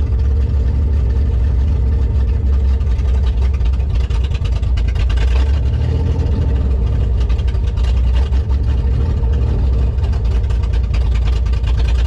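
A 4.3-litre V6 running loud and steady with its exhaust removed, held at about 1500 rpm and not revving any higher. It is running with no oil and no coolant, the oil pressure reading zero.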